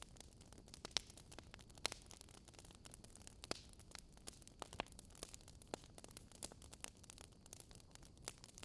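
Wood fire crackling faintly: irregular sharp pops and snaps, several a second, over a low steady hiss.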